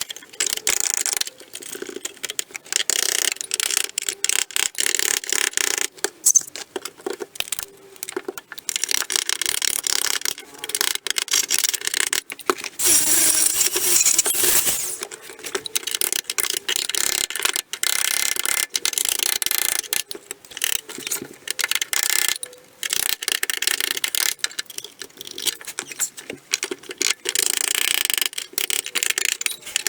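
MIG welder laying short stitch welds on car body steel: a harsh crackle in bursts of one to three seconds, stopping and restarting many times.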